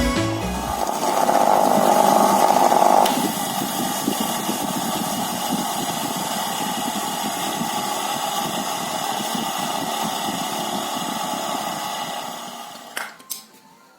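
An electric power tool runs steadily, a little louder for the first couple of seconds, then winds down near the end. A few sharp clicks follow.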